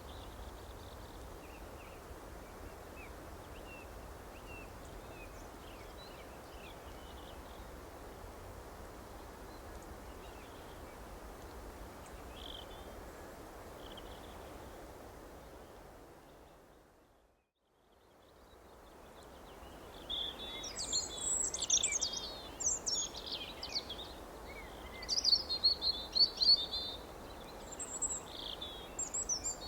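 Small songbirds chirping over a steady background noise, faint at first. Just past halfway the sound fades out to silence and fades back in with louder, busier chirping from many birds.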